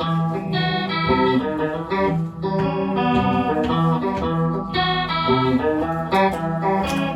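Live band playing the instrumental opening of an indie rock song: guitar with sustained, organ-like chords that change every half second or so, with no singing yet.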